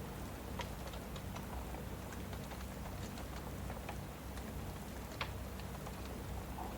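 Steady rain with a crackling wood fire: scattered, irregular sharp pops and snaps over an even hiss, the loudest pop about five seconds in.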